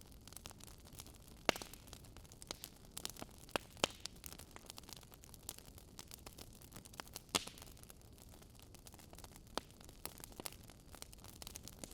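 Wood fire crackling: irregular snaps and pops over a soft hiss, with two sharper pops, one about a second and a half in and one past seven seconds.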